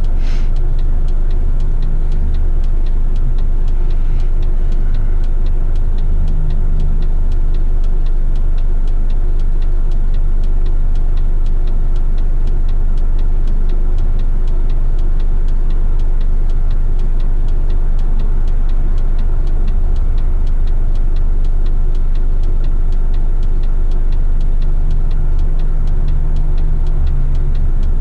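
Heavy rubbish truck's diesel engine running steadily, with one brief click right at the start.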